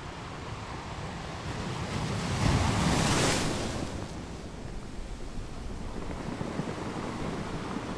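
Wind and waves on open water, wind buffeting the microphone, with a louder rush that swells and fades about three seconds in.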